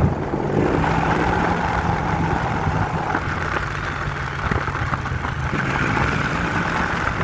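A motor vehicle engine running steadily at an even speed, under a steady hiss of wind or road noise.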